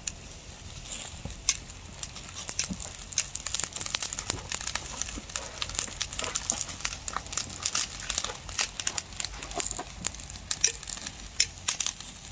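Black pork grilling over a wood and charcoal fire, its fat sizzling with dense, irregular crackles and pops.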